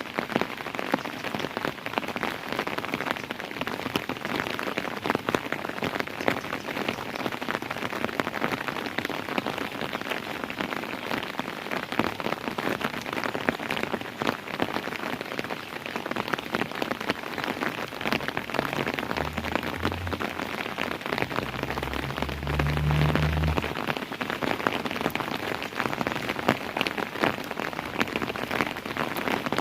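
Steady rain falling, a dense patter of individual drops hitting a surface. A low rumble swells in and dies away about two-thirds of the way through.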